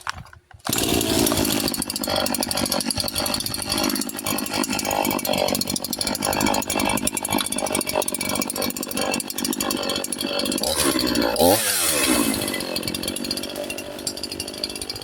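Echo CS-4910 two-stroke chainsaw running at high revs, coming in loud just under a second in, with the revs dropping and climbing again near the end. Its muffler has been opened up (louvers enlarged, spark screen removed), which gives it a louder exhaust note.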